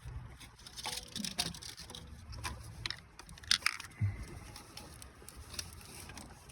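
Scattered small clicks, taps and rattles of hand tools and parts being worked on around a Subaru engine's spark plug area, with one sharper click a little past three and a half seconds in.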